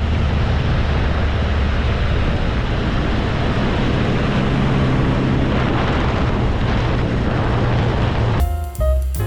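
MG Midget's 1275cc four-cylinder engine running at a steady road speed, a low drone under heavy, steady wind and road noise. About eight seconds in it cuts off, and music with drums and piano starts.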